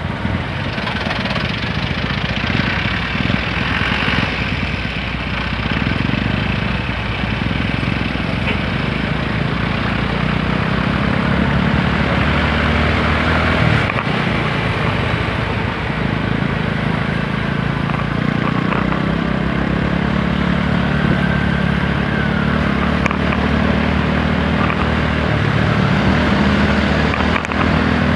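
Motorcycle ride heard from the bike: the TVS Apache RTR 160 4V's single-cylinder four-stroke engine running under way, with a steady engine note that grows stronger about ten seconds in, over wind and road noise.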